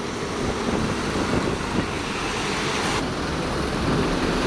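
Steady vehicle engine and traffic noise, with wind rumbling on the microphone.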